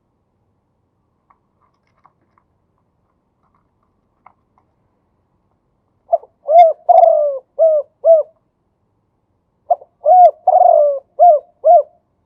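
Male spotted dove cooing: two phrases a few seconds in and near the end, each a quick short note followed by a run of rounded coos.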